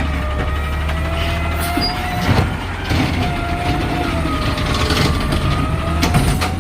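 Garbage truck running, a steady low engine drone with a wavering whine over it and a couple of short knocks.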